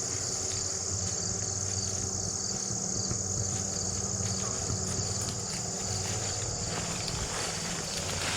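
Steady chorus of field insects such as crickets, a continuous high trill, over a low steady hum.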